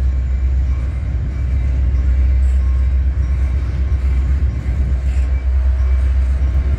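Double-stack intermodal container cars of a freight train rolling past, a steady low rumble of steel wheels on the rails.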